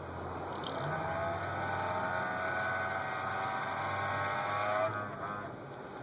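Desktop computer making a strange whining noise: several steady tones start about a second in, sag slightly in pitch and stop after about five seconds, over a steady low hum.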